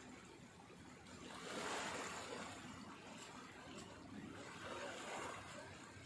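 Faint rushing noise that swells up twice, about three seconds apart, and fades each time.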